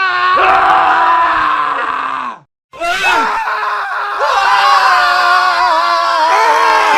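Men screaming: a long, loud scream, a brief cut to silence about two and a half seconds in, then more overlapping male screams to the end.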